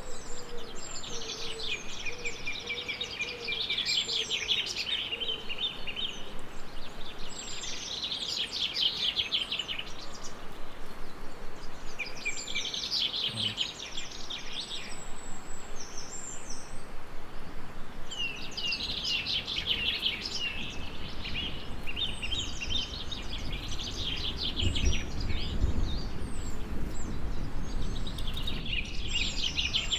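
Songbirds singing in a series of quick trilling phrases a few seconds long, with short pauses between, over a steady background hiss. A low rumble swells in the second half.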